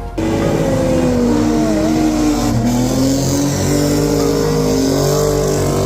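Drift car engine held at high revs during a drift, its pitch wavering up and down without a break.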